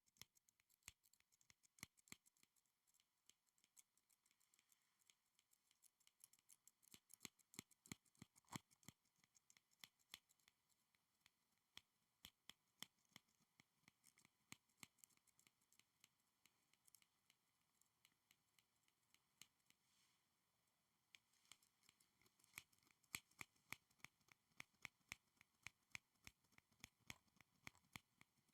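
Quick, irregular sharp clicks and taps from school supplies being handled close to the microphone, several a second, thinning out briefly a little past the middle.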